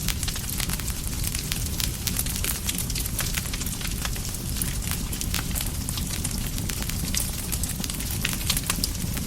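Campfire burning: a steady low rumble of flames with frequent sharp crackles and pops from the wood, irregular and continuous.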